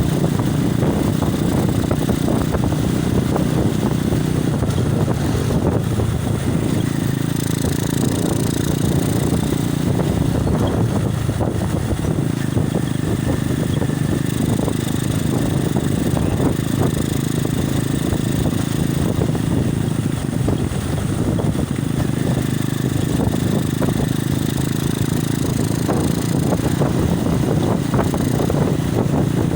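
Wind buffeting a phone's microphone on a moving motorcycle, steady and loud, over the even running of the engine.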